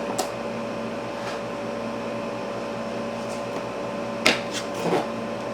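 A steady room hum with a faint whine, broken by a few short clicks and rustles as the apron is taken out of its packaging. The sharpest click comes a little past the middle.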